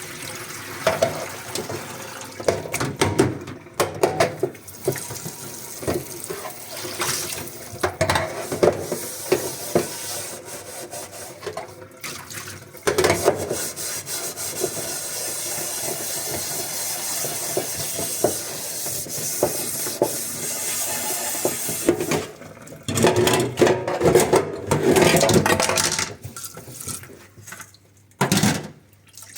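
Dishes being washed by hand under a running kitchen tap: water splashing and dishes knocking together, with a stretch of steady running water in the middle, then more splashing and clattering near the end.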